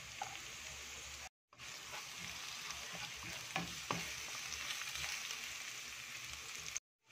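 Garlic, onion and ginger strips sizzling in hot oil in a wok, a steady frying hiss with a couple of sharp utensil clicks about halfway through. The sound cuts out briefly twice.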